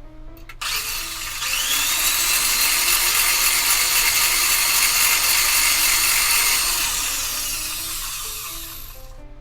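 A small handheld power tool, such as a rotary tool or mini drill, spins up with a rising whine, runs steadily for several seconds, then winds down and stops. Quiet background music plays underneath.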